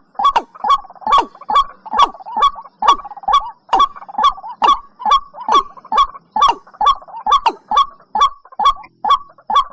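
Watercock (cúm núm) calling in a steady, rapid series of short hollow notes, about two a second, each dropping in pitch.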